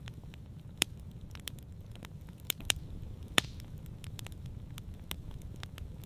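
Campfire burning and crackling, with irregular sharp pops, the loudest about a second in and near the middle, over a steady low rumble.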